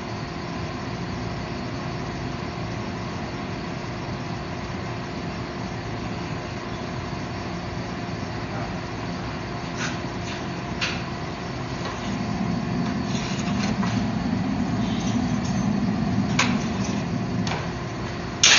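Steady roar and hum of running forge-shop equipment, with a louder low rumble that swells about twelve seconds in and lasts several seconds. A few light clicks come near the middle, and a sharp metallic bang lands at the very end.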